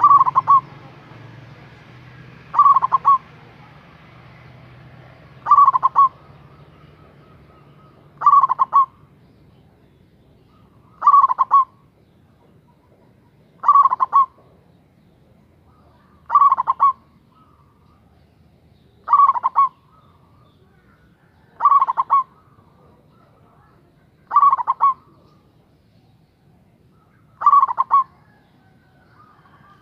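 Local Javanese zebra dove (perkutut) cooing: a short, rolling phrase repeated eleven times, evenly spaced about every two and a half seconds.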